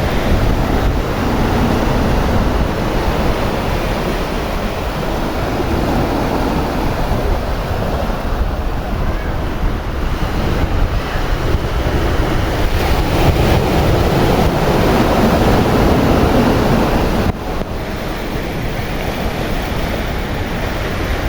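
Sea waves washing in, with wind buffeting the microphone in a heavy low rumble; the sound drops a little about seventeen seconds in.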